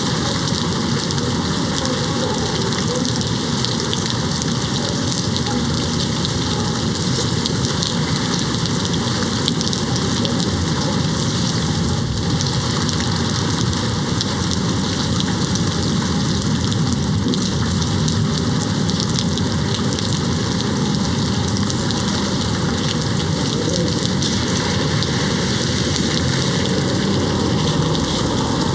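Steady rain beating on a window: a dense, even hiss with fine pattering of drops.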